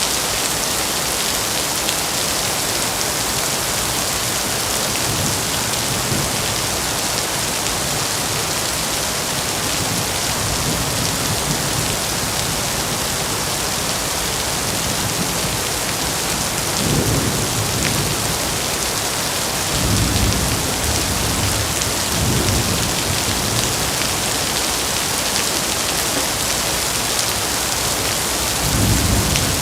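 Heavy rain falling steadily with a dense hiss. Several low rumbles swell up in the second half: one briefly, then a longer one, then another near the end.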